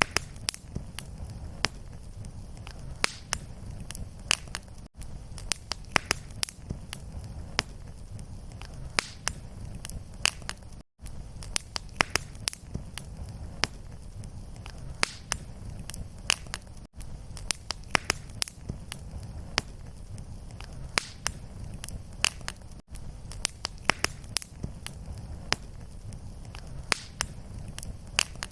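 Fireplace fire crackling: a steady low rumble of flames with frequent sharp, irregular pops. There is a brief silent gap about every six seconds.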